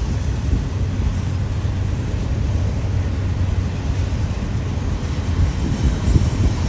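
Double-stack intermodal freight cars rolling past, a steady low rumble.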